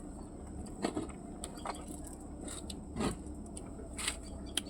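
Eating sounds: a handful of short, sharp mouth clicks and smacks scattered over a low, steady hum.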